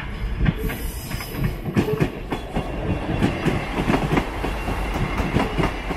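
Two-car Class 158 diesel multiple unit passing at close range over a level crossing: a steady low rumble with its wheels clattering over the rail joints and crossing, knock after knock.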